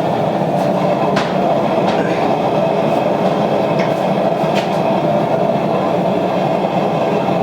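Hydraulic forging press running steadily while shaping the shoulders and tang of a knife blade, with a few faint clicks.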